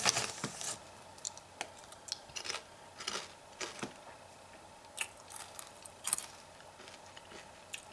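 A mouthful of crunchy potato chips being chewed close to the microphone: soft, irregular crunches spaced out across several seconds.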